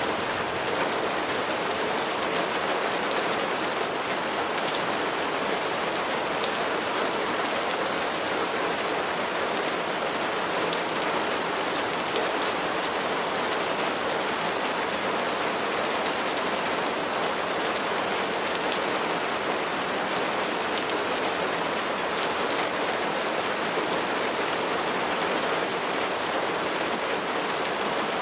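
Steady rain falling, with dense pattering of drops on a surface and no pauses.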